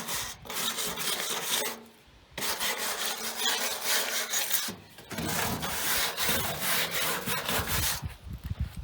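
Wire brush scrubbing loose, flaking paint off an old farm truck in quick back-and-forth strokes. The scraping comes in three spells with short pauses about two and five seconds in, and stops about eight seconds in.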